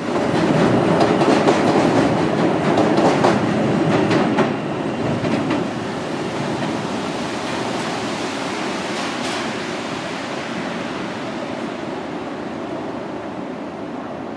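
R42 subway train passing, its wheels clicking over the rails loudest for the first four seconds or so, then the sound fading steadily as it moves off, with a steady hum underneath.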